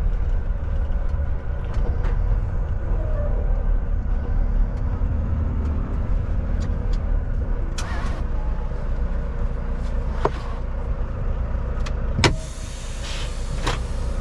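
Semi-truck diesel engine running low and steady, heard from inside the cab, with a few sharp clicks and rattles. A loud clack comes about twelve seconds in, after which the rumble drops a little and a faint hiss sets in.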